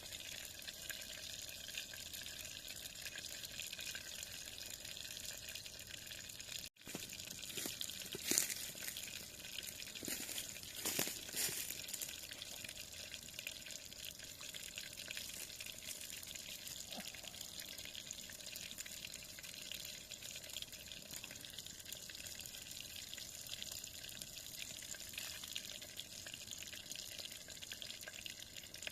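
Steady rush of river water flowing. A few short knocks and clicks come about 8 to 12 seconds in.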